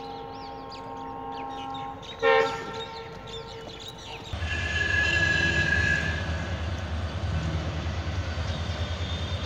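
A train horn sounds a held chord for about two seconds, then gives a short, louder blast. From about four seconds in, a train's heavy, steady rumble with a fast pulsing beat takes over.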